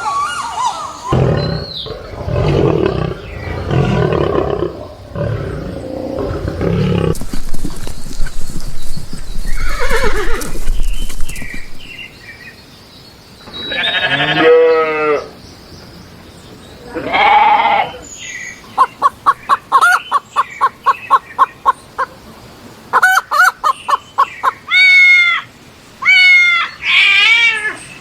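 A string of different animal calls one after another: low repeated sounds at first, then several drawn-out pitched calls, some falling in pitch, and a fast run of short pulses.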